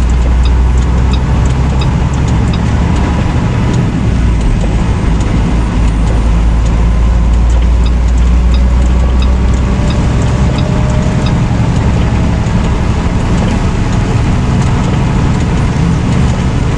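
Semi truck driving down the road, heard from inside the cab: a steady low engine drone mixed with road noise.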